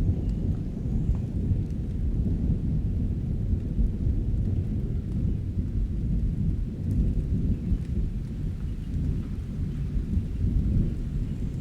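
Thunderstorm: a continuous low rumble of thunder under steady rain, with scattered faint drop ticks.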